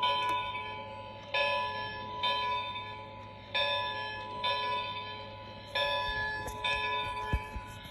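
The Locomotive Legends steam train clock playing its 1 o'clock sound through its small speaker: a bell ringing in pairs of strokes about a second apart, a new pair every two seconds or so, each stroke ringing on. A brief knock comes near the end.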